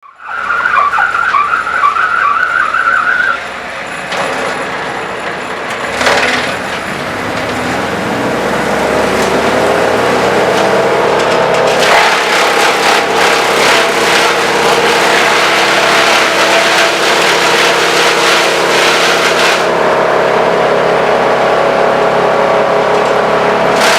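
Vermeer BC1000 wood chipper's engine speeding up over a few seconds and then holding a steady high running speed. A wavering high-pitched squeal sounds for the first three seconds or so.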